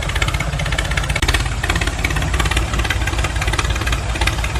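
A motor running steadily with a fast, rough pulsing chug and no change in speed.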